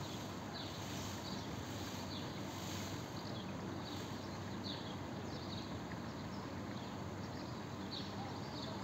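A small bird chirping over a steady outdoor hiss: short, high, falling chirps repeating irregularly, about once or twice a second.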